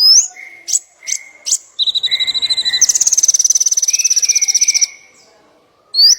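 Murai trotol singing: a few short, sharp rising whistles and chips, then a fast, even, high trill lasting about two seconds, and another rising whistle near the end.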